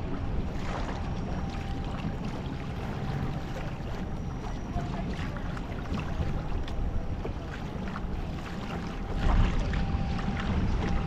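Wind buffeting the microphone over choppy open sea, with small splashes and knocks of water against a kayak hull, gusting louder near the end.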